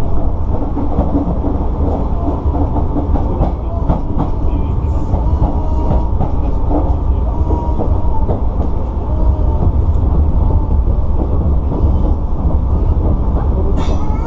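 Sotetsu electric train running on the rails, heard from inside the car: a steady low rumble with irregular clicks and clacks of the wheels on the track.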